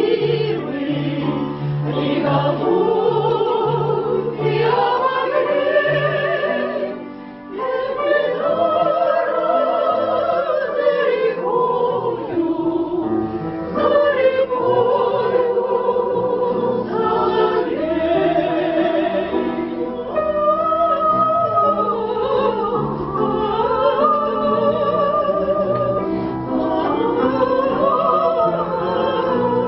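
Classically trained voices singing a song with wide vibrato, over instrumental accompaniment, with a short break between phrases about seven seconds in.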